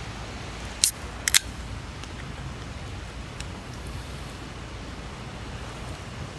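Steady low rush of a flowing river, with three sharp clicks just after a second in, one and then two close together.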